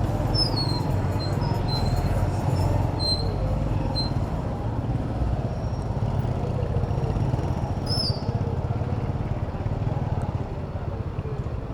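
Steady city road traffic and wind rumble, heard from a moving bicycle, with a few short high squeaks in the first few seconds and again about eight seconds in.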